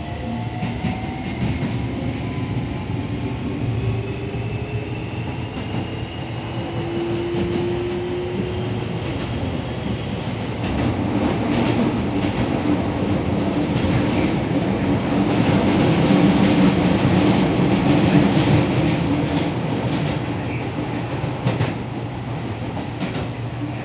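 Running sound inside a Keio 7000 series electric train. A motor whine rises in pitch over the first several seconds, over the rumble of wheels on rail and the clicking of rail joints; the rumble grows louder through the middle and eases near the end.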